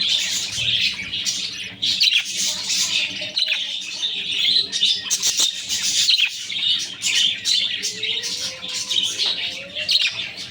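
Budgerigars chirping and chattering continuously, many quick overlapping high chirps with no break.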